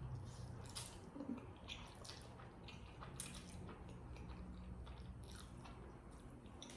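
Faint, wet chewing and mouth sounds of a person eating noodles, close to the microphone, with scattered small clicks.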